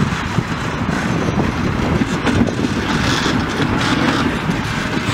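Vintage railway passenger coaches rolling past at close range: a steady rumble of steel wheels on the track with many irregular clacks and knocks.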